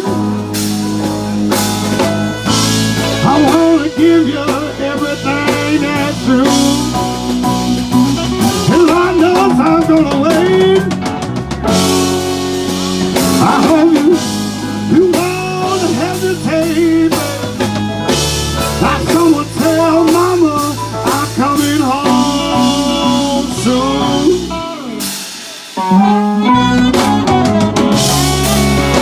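Live band playing an instrumental blues-rock passage on drum kit, bass and guitar. About three-quarters of the way through, the bass and drums drop out for a moment, then the full band comes back in.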